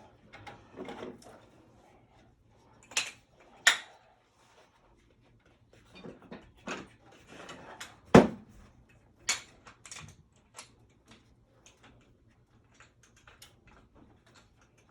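Hard objects clanking and knocking as they are handled: a string of sharp knocks, the loudest about eight seconds in, with quieter rattling and shuffling between.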